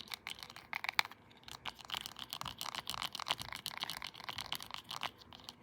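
A plastic straw and a remote control handled close to the microphone: a quick, uneven run of small plastic clicks, taps and scratches.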